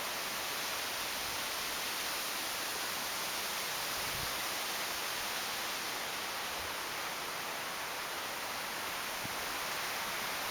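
Storm wind rushing through trees and foliage, a steady hiss of rustling leaves with no let-up.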